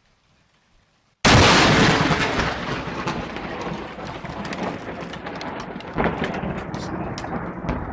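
About a second of near silence, then a sudden very loud thunderclap that rumbles and crackles as it slowly fades, with another sharp crack about six seconds in.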